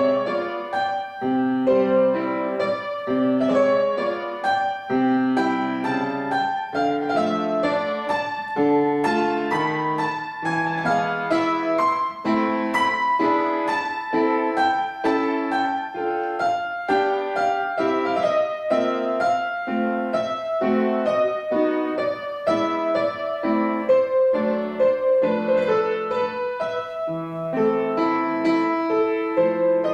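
Solo piano playing a classical piece: a continuous flowing melody over moving chords, with no pauses.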